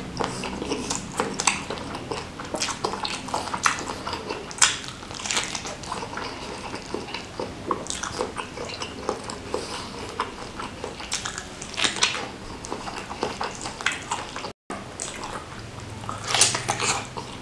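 Close-miked chewing and wet mouth sounds of a person eating a stuffed beef meatball in spicy broth, with many short irregular smacks and clicks. A louder bite into the big meatball comes near the end.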